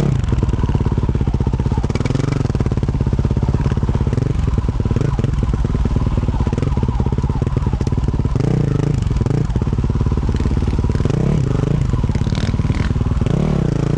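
2024 Yamaha YZ450F single-cylinder four-stroke dirt bike engine running hard through a Yoshimura RS-12 exhaust while riding, close up on the exhaust side. The revs rise and fall several times as the throttle is worked.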